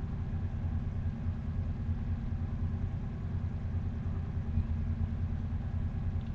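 Steady low background hum, even throughout, with no other distinct sound.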